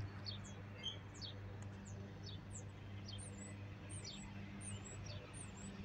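Small songbirds chirping: a quick run of short, high, down-slurred chips and a few warbled notes, over a faint steady low hum.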